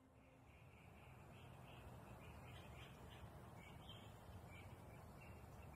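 Near silence: faint outdoor ambience with a low rumble and a bird chirping over and over.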